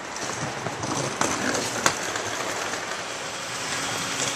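Steady urban background noise, typical of a passing train or rail traffic, with a few sharp clicks.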